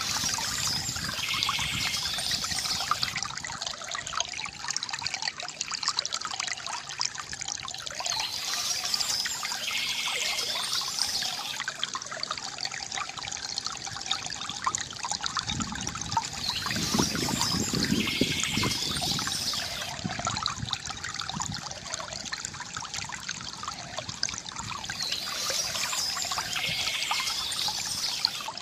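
Water trickling and gurgling steadily from a bamboo fountain, with a short bird chirp coming back about every eight seconds, four times in all. The gurgling swells and deepens about halfway through.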